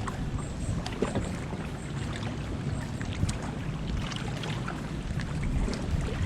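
Kayak on open water: steady wind rumble on the microphone with light water sounds, and scattered small clicks and knocks.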